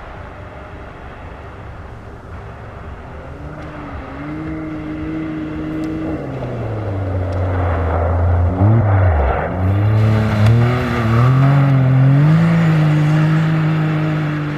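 A rally-raid competition car's engine coming closer and revving hard, loudest in the middle, with a sudden drop and climb in engine note about nine seconds in as it shifts or lifts off, then settling to a steady note near the end.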